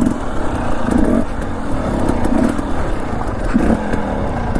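Dirt bike engine running at low speed on the trail, its note swelling in short surges about once a second as the throttle is worked.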